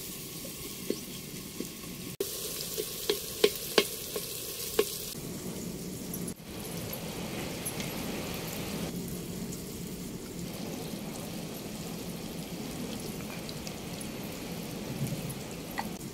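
Food sizzling as it fries in oil in a pot over a wood fire. In the first few seconds, a long ladle knocks sharply against the pot several times as it is stirred.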